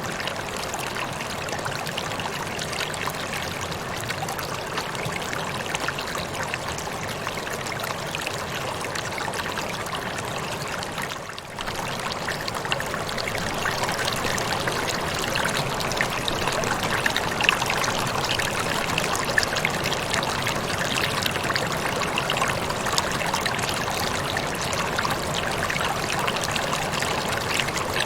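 Waterfall: a steady rush of falling and splashing water. It dips briefly a little before the middle, then runs slightly louder with more distinct splashes.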